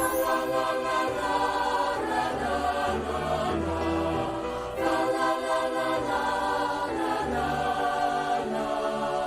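Choral music: a choir singing held chords that change every second or so, with a brief break about five seconds in.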